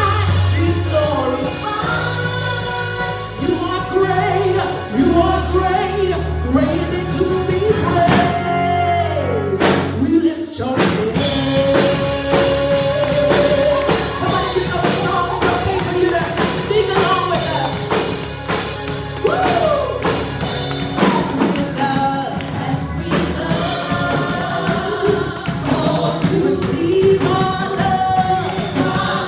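Gospel music with singing and a steady beat, tambourine among the instruments.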